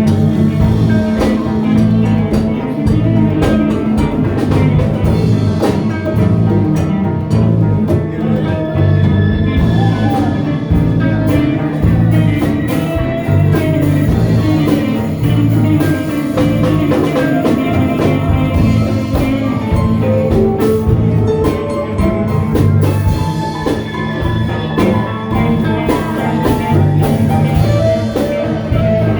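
Live band playing an instrumental number with drum kit and guitar, at a steady beat.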